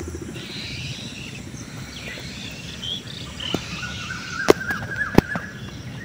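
Birds chirping and calling in short phrases, with one longer held call in the second half, over a steady low background noise. Two sharp clicks come about four and a half and five seconds in.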